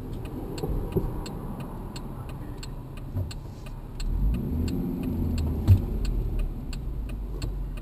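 Idling car engine and road rumble heard from inside a stopped Jeep Wrangler, a low steady rumble that swells about four seconds in, with a couple of short low thumps. A faint, even ticking runs alongside at about two ticks a second.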